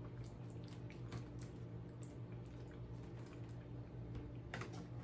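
Close-miked mouth sounds of a person chewing a mouthful of rotini pasta with meat sauce: soft wet squishing and small lip and tongue clicks, with a quick cluster of clicks near the end. A low steady hum runs underneath.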